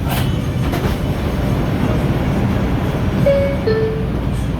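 R142 subway car running through the tunnel, with a steady low rumble and a few sharp clacks from the rails near the start. About three seconds in, a short tone steps down from one note to a lower one.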